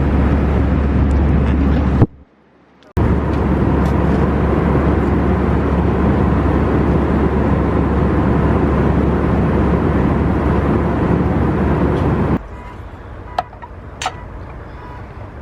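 Loud steady rumble from inside a moving vehicle, most likely a jet airliner's cabin in flight. It breaks off briefly about two seconds in and drops to a much quieter background with a couple of sharp clicks near the end.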